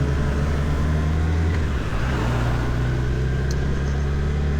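Motorcycle engine running steadily while the bike is under way, with wind and road noise.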